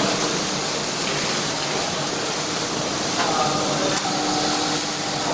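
Steady hiss of workshop machinery with a constant low hum, and faint voices about three seconds in.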